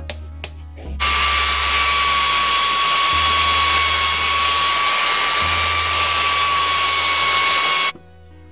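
Handheld belt sander motor switched on about a second in, running steadily with a high whine, then cut off just before the end.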